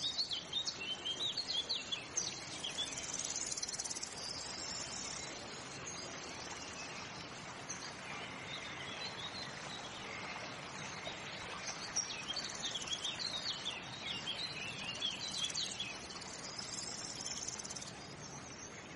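Small birds chirping and calling outside, many short high chirps over a steady faint hiss, busiest in the first few seconds and again toward the end.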